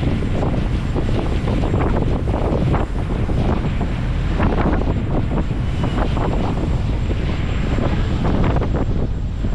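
Gusty wind buffeting the microphone on a moving ferry's open deck, over the ferry's steady low rumble.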